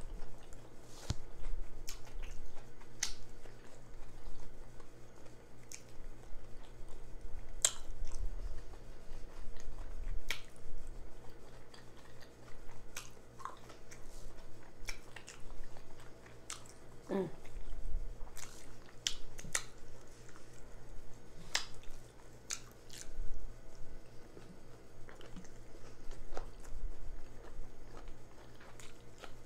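Close-miked chewing of a jalapeño cheddar sausage, with many sharp wet lip smacks and mouth clicks scattered through.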